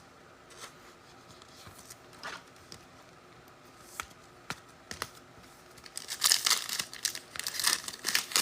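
A few light clicks from handling cards, then about six seconds in, crinkly tearing and crumpling as a foil trading-card pack is ripped open.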